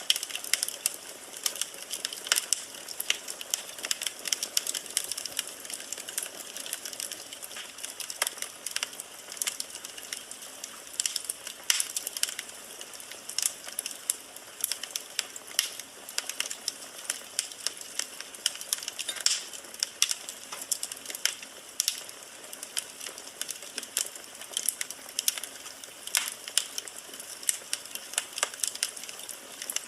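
Wood fire in a fireplace crackling: a steady stream of irregular sharp pops and snaps from burning logs over a soft hiss.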